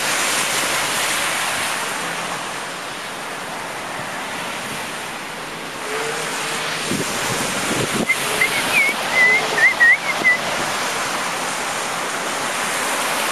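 Steady rushing noise of wind and street traffic in a snowstorm, with wind buffeting the microphone. About eight seconds in, a few brief high warbling chirps sound over it.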